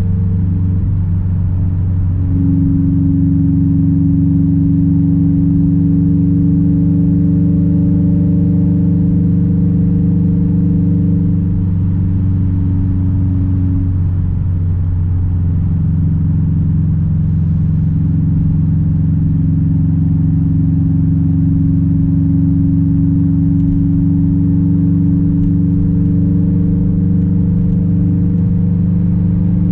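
Straight-piped 2006 Subaru WRX STI's turbocharged flat-four exhaust droning at a steady cruise. The engine note holds steady, wavers and changes pitch for a few seconds about halfway through, then settles into a steady drone again.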